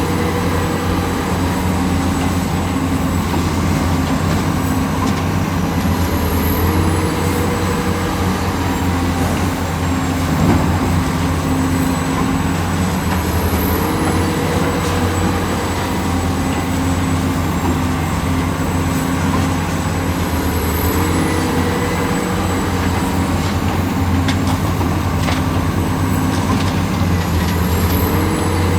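Heavy construction machinery engine running steadily under load, its pitch stepping up and back about every seven seconds.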